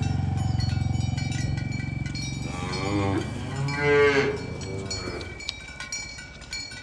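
Cattle mooing: a deep moo trails off over the first couple of seconds, then a louder moo rises and falls in pitch about three to four seconds in.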